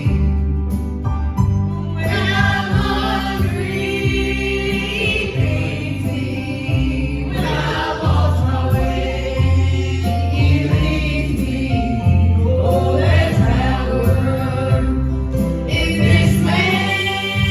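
Gospel vocal group singing in harmony over instrumental accompaniment with a steady bass line.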